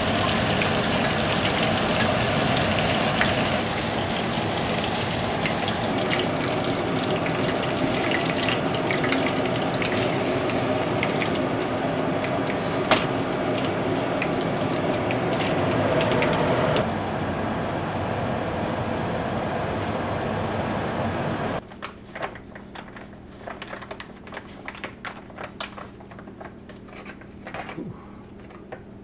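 Battered fish frying in a pan of hot oil: a loud, steady sizzle and crackle. It quietens somewhat partway through, then stops abruptly and gives way to light clicks and clinks of dishes and utensils.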